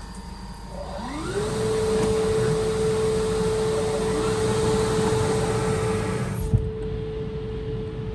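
Automatic car wash drying blower spinning up: a whine rises about a second in and then holds steady under loud rushing air. The rush of air falls away about six and a half seconds in while the whine carries on.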